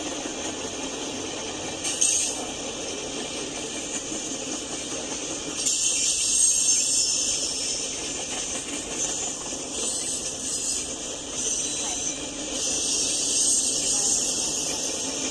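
Freight train rolling past: a steady rumble of wheels on rail with a high hiss. There is a brief louder surge about two seconds in, and the sound grows louder from about six seconds in.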